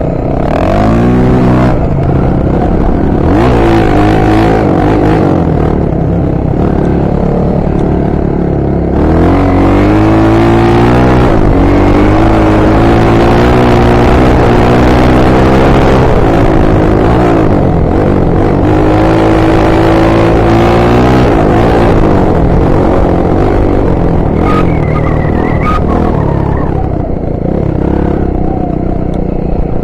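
Honda XR 250 Tornado's single-cylinder four-stroke engine under way, its revs climbing and dropping back again and again as the bike accelerates and shifts, loudest through the middle of the stretch.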